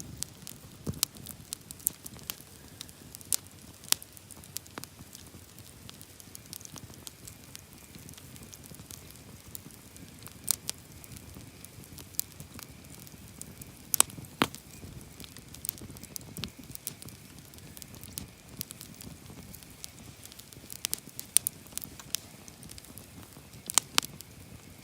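Wood campfire burning, crackling with irregular sharp pops over a low steady hiss; a few louder pops come around the middle and near the end.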